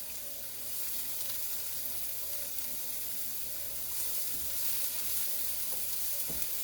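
Chopped onion, garlic and ginger sizzling steadily in sesame oil in a skillet over medium-high heat, with a few light knocks of a spoon stirring them about four to six seconds in.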